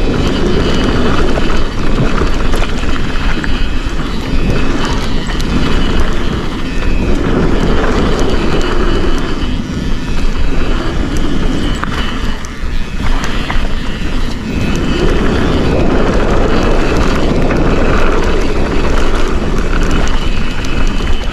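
Wind rushing over the microphone and knobby tyres rolling over a dirt trail as a Forbidden Dreadnought mountain bike descends, with many small clicks and rattles from the bike over bumps. The rush swells and eases in long stretches.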